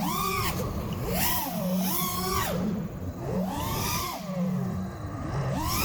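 FPV racing quadcopter's motors whining, the pitch sweeping up and down in repeated arcs as the throttle rises and falls during a low orbit.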